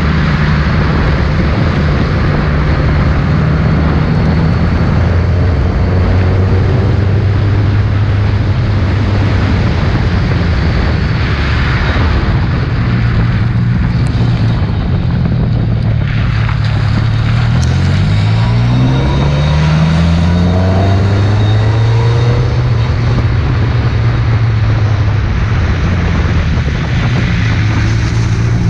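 Ford Escort RS competition car engine running hard, holding steady pitches with shifts, then rising sharply as it accelerates about two-thirds of the way through, over a steady hiss of wind and wet road.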